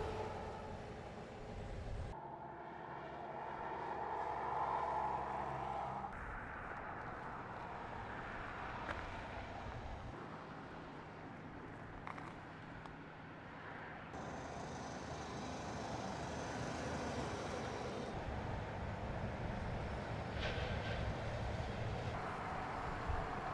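Highway vehicle noise with engines running, its character changing abruptly every few seconds.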